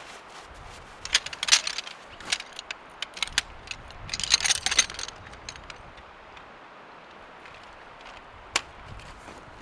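Light metallic clinking and jingling in two short bursts, about a second in and again around four seconds, with a single sharp click near the end.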